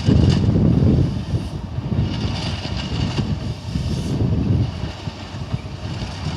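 Diesel engine of a Komatsu PC200F forestry excavator running under work load, a heavy rumble that swells and eases as it works.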